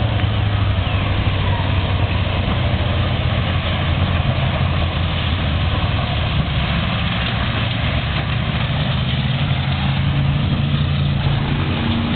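Race car engines running with a steady low drone, pitch holding nearly level.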